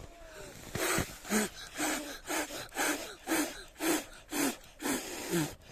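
A person blowing hard on a smouldering newspaper-and-twig campfire to make it catch: about ten short, forceful puffs of breath, roughly two a second.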